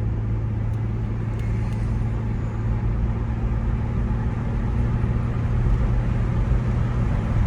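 Cabin drone of a 2008 Mazda CX-9 accelerating hard: a steady low engine and road hum that grows a little louder toward the end. The creaking noise the owner is chasing is not heard while he is on the gas.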